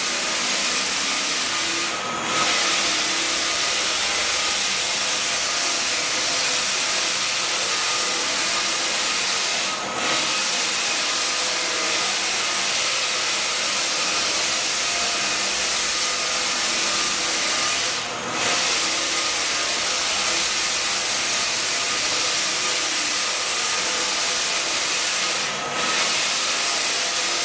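Floor sander running steadily on a hardwood floor, a loud, even hiss-like machine noise with a faint steady whine. It dips briefly about every eight seconds.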